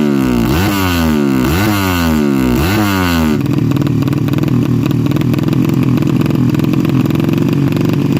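Drag-built Yamaha Jupiter 200cc single-cylinder four-stroke engine, fitted with a PWK Sudco 33 carburettor, being revved: three or four quick throttle blips about a second apart, each dropping back, then held at steady high revs from about three seconds in.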